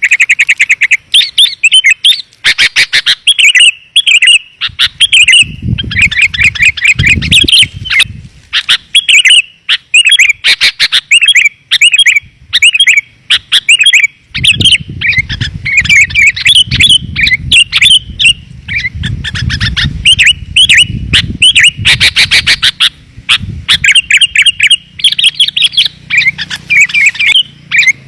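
Sooty-headed bulbuls chirping in a rapid, dense stream of clear calls, a lure recording for drawing wild bulbuls in. A low rumble sits underneath for a few seconds about five seconds in, and again through the middle.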